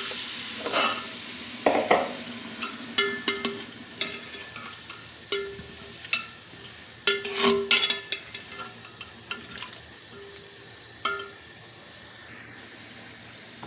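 Chicken pieces and spice paste sizzling in hot oil in a cooking pot while a spoon stirs and scrapes them, with irregular clinks and scrapes of the spoon against the pot. The sizzle is louder in the first second, then settles to a steady hiss: the masala being fried with a little water (bhuna).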